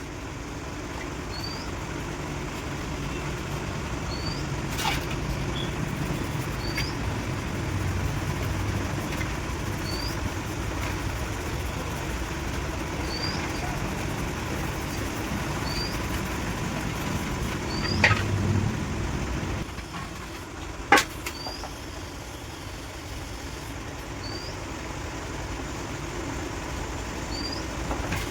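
Maruti Alto 800's three-cylinder petrol engine running steadily at idle, a low continuous rumble. A faint short high chirp repeats every second and a half or so, and a few sharp clicks or knocks stand out, the loudest about eighteen and twenty-one seconds in.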